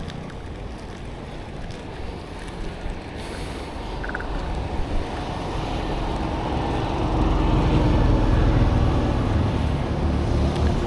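A heavy road vehicle's engine comes closer and passes close by, getting louder from midway through to a peak near the end, over road rumble and wind on the microphone.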